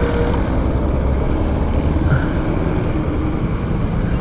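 Steady low engine rumble and road traffic noise.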